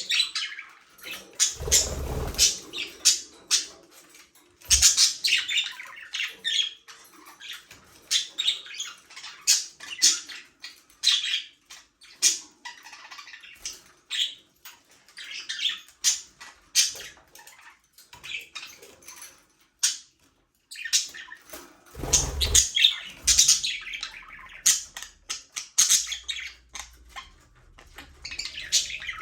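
A flock of budgerigars chattering, with rapid short chirps and squawks throughout. Two brief low thumps, about two seconds in and again about twenty-two seconds in.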